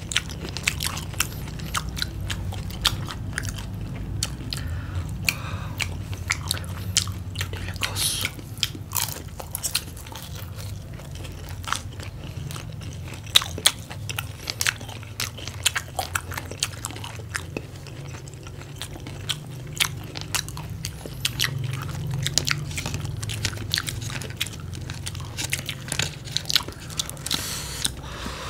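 Close-up crunching and chewing of crisp, battered deep-fried chicken and vegetables: many sharp, irregular crunches from bites and chewing, over a low steady hum.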